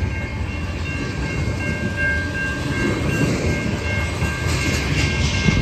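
Freight train rolling past at close range, its tank cars' wheels rumbling over the rails, with a steady high-pitched tone running over the rumble.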